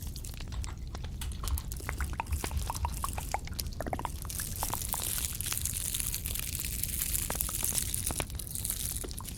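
Close-miked ASMR trigger sounds: a run of small crisp clicks and taps, then a soft, high hissing rustle from about four seconds in that fades out near the end.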